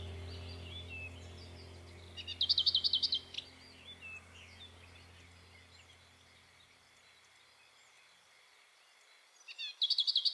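A bird singing a fast, even trill of repeated notes, twice: about two seconds in and again near the end, with faint scattered chirps between. A low steady drone fades out over the first several seconds.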